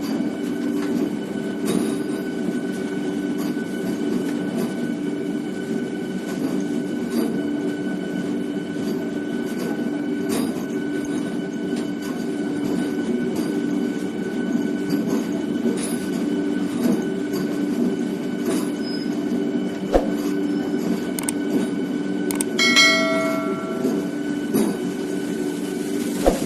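Diesel locomotives running steadily with a dense engine drone, broken by scattered metallic clanks. Near the end a short, high-pitched tone sounds for about a second.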